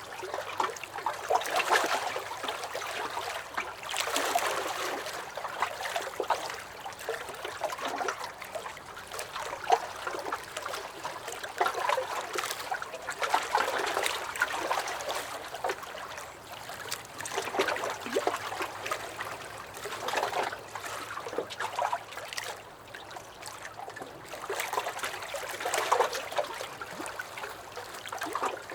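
Small lake waves lapping and sloshing against a dock, in irregular splashes that swell and ease every second or two.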